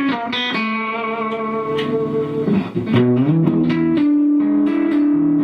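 Rickenbacker 325 electric guitar played clean with compression: sustained notes and chords ringing out, changing to a new chord about three seconds in.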